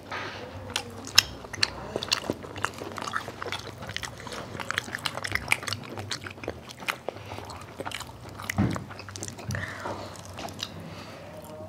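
Close-miked eating sounds: wet chewing and lip-smacking from people eating baked spaghetti and a cheese stick, a dense scatter of small clicks and smacks.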